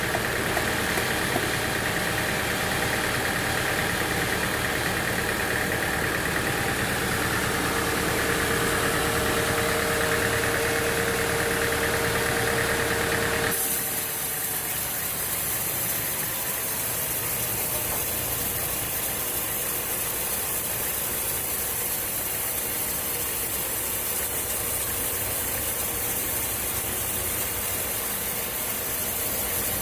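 Sawmill machinery running steadily with an engine-like sound. About halfway through, the sound changes abruptly to a steady high hiss.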